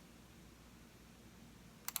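Computer mouse button clicked twice in quick succession near the end, a double-click, over quiet room tone.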